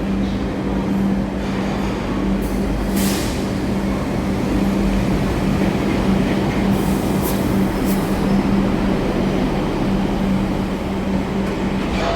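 Steady running noise of an MTR Light Rail car, heard from on board: an even rumble with a constant low hum. Brief high-pitched hisses come about a quarter of the way in and again about two-thirds through.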